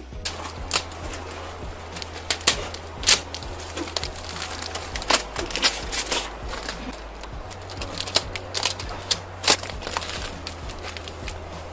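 A run of irregular sharp knocks and crackles, about a dozen loud ones, with a crunching haze between them and a steady low hum underneath.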